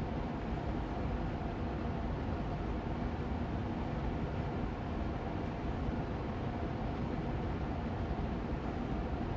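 Austin Air Allergy Machine air purifier fan running steadily on medium speed: an even, unchanging rush of air with a low hum.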